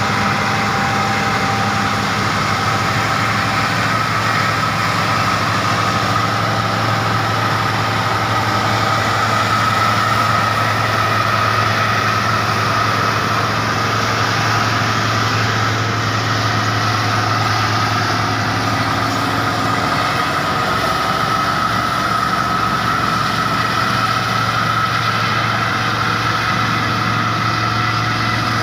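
Logging lorry's diesel engine running steadily under load, a deep drone with a steady whine above it.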